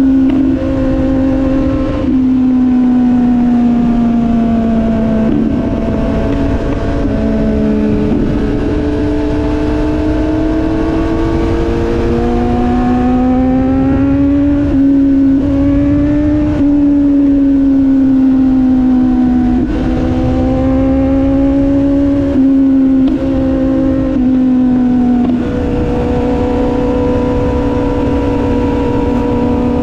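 Motorcycle engine running at road speed, its pitch rising and falling gradually as the throttle eases on and off, with a few quick drops and steps in pitch. Steady wind rumble on the microphone underneath.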